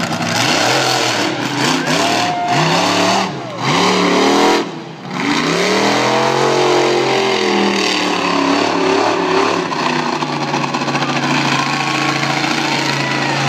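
Monster truck engine revving hard in repeated surges, its pitch climbing and falling several times with two brief drops in the first half. It then holds at a steady high pitch under load.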